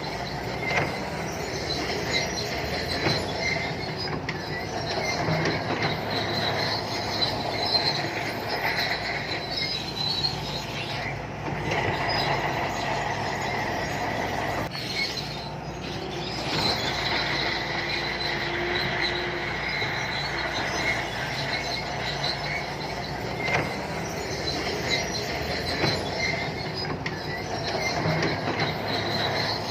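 Shantui crawler bulldozer at work: its diesel engine running steadily under load, with a high squeal and frequent clicking from the steel tracks.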